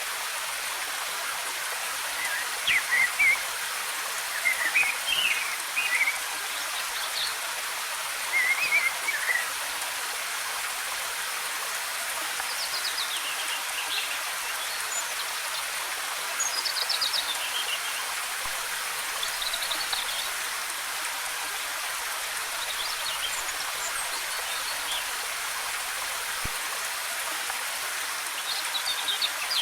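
Steady hiss of a waterfall's cascading water, with forest birds singing short chirping phrases over it every few seconds.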